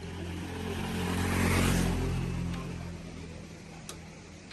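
A motor vehicle passing by, its engine and tyre noise swelling to a peak about a second and a half in and then fading away. A single sharp click near the end.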